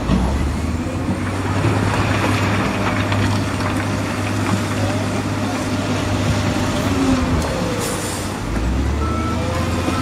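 Heavy diesel construction machinery running steadily with a low engine drone, and a short hiss about eight seconds in.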